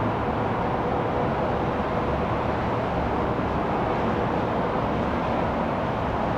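Steady rumble of an Airbus A350-900 airliner, an even noise with a faint hum and no change in level.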